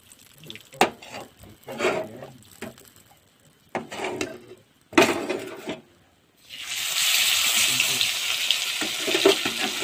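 A few scattered knocks and scrapes of a utensil on a steel wok, then about six and a half seconds in a loud, steady sizzle begins as food pieces go into the hot oil left from frying chicken.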